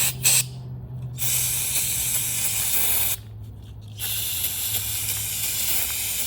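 Aerosol brake cleaner sprayed through its straw to flush out a passage in a snowmobile fuel pump: a few short spurts, then two long, steady sprays of about two seconds each.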